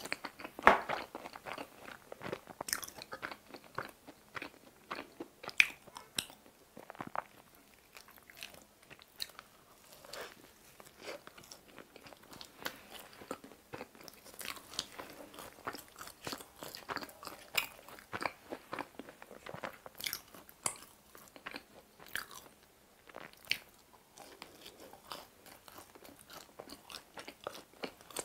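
A person biting and chewing pizza crust, with irregular crisp crunches and chewing clicks.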